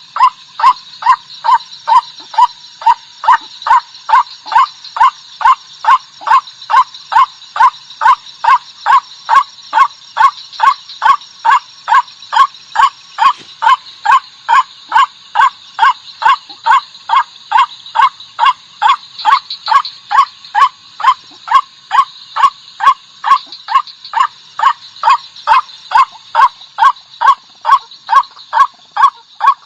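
White-breasted waterhen call, given as the female's: one short, clipped note repeated about twice a second in a steady, unbroken rhythm, over a steady high-pitched background hum.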